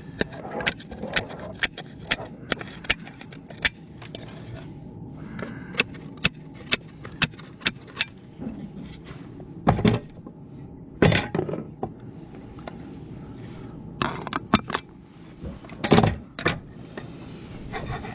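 Hammer tapping nails through fibre-cement artificial-slate shingles: a quick run of sharp taps about two a second, then scattered taps and a few heavier knocks.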